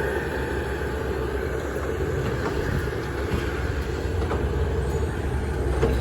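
Heavy diesel machinery running steadily with a low, even drone.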